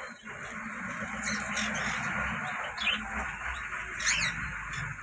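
Java sparrows chirping: several short, sharp downward-sliding calls scattered through, over a steady background hiss.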